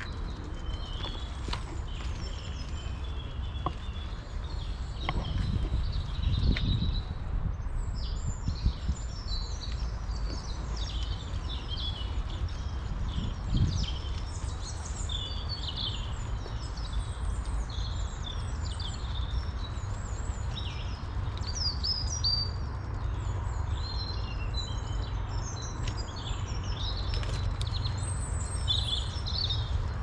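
Several songbirds singing at once, a dense run of quick high chirps and trills, over a steady low rumble. A few dull thuds stand out about six and fourteen seconds in.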